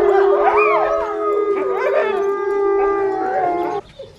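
Several wolfdogs howling together in chorus. Long held notes sound with other voices gliding up and down over them, and the howling stops abruptly near the end.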